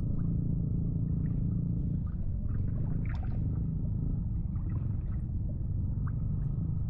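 A steady low motor drone at an even level, with a few faint ticks and small water sounds over it.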